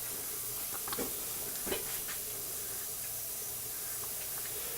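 Steady hiss of steam from a small model steam engine running smoothly on steam from an electrically heated boiler, with a couple of faint ticks about a second in.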